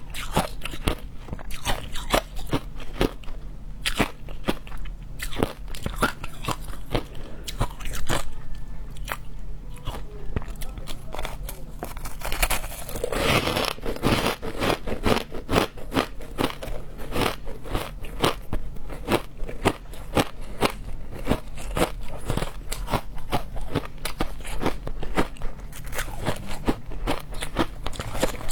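Frozen matcha ice being bitten and chewed: a continuous run of sharp crunches and crackles, with a denser stretch of crunching about halfway through.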